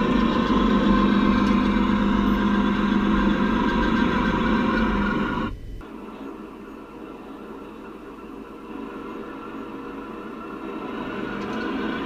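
A small electric motor running with a steady hum, cutting off suddenly a little past halfway. A fainter running sound continues after it and grows slightly louder near the end.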